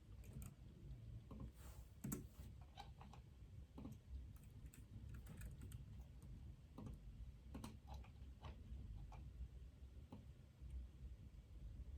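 Faint, irregular typing on a computer keyboard: scattered key clicks over a low, steady room hum.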